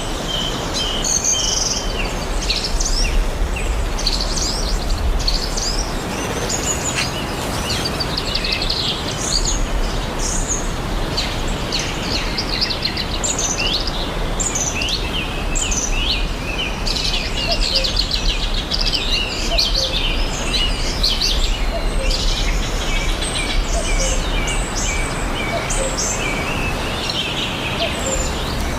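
Many birds chirping and trilling over the steady rush of a waterfall.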